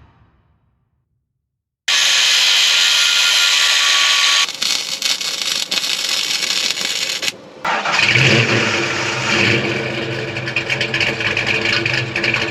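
A Mustang's 306 small-block V8 running loud through its exhaust, starting and revving. The sound comes in several spliced clips that begin and end abruptly.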